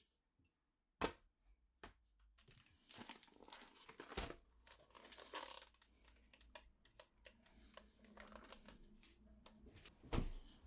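Packaging being crinkled and torn open during kitchen prep, with scattered clicks and knocks: a sharp knock about a second in and another loud one near the end.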